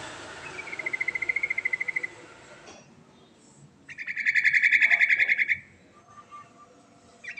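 Trucukan (yellow-vented bulbul) singing in rapid, even-pitched trills: a softer trill under a rushing hiss early on, then a loud trill of about a second and a half, and another starting at the very end.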